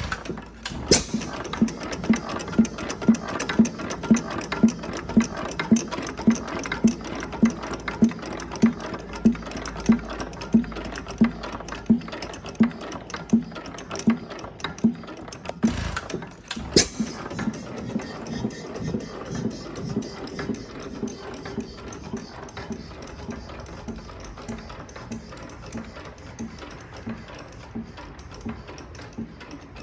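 6 hp Armstrong hit-and-miss engine with elliptical gears running, with strong, evenly spaced beats about two a second. There is a sharp click about 17 seconds in, after which the beats carry on noticeably softer.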